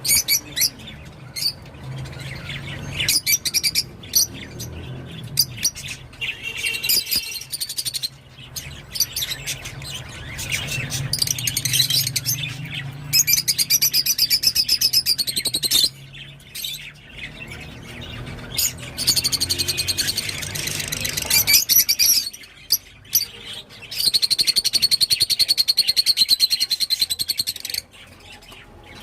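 Rosy-faced lovebird chattering: rapid, shrill chirps in long runs of several seconds, broken by short pauses. A steady low hum runs underneath through the first half.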